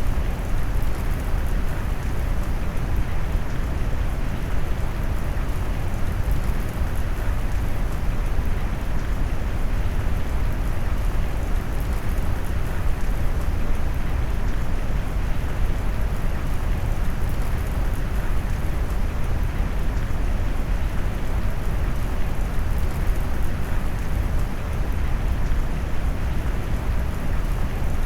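Steady rain mixed with brown noise: an even, deep hiss of heavy rain weighted toward the low end, with no distinct drops or changes.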